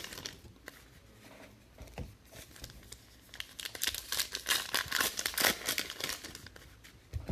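Foil trading-card pack wrappers being crinkled and torn open by hand: scattered crackles at first, then a busy burst of crinkling and tearing from about three and a half seconds in.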